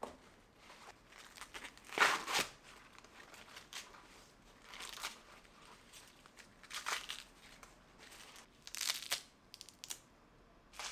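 Fresh corn being husked by hand: leafy husks crinkling and tearing off the ears in several separate pulls, the loudest about two seconds in, with a few small snaps near the end.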